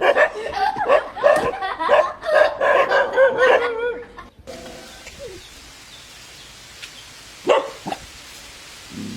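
A dog barking repeatedly and excitedly for about four seconds. It then cuts off suddenly to a quiet hiss, with two short barks close together a little before the end.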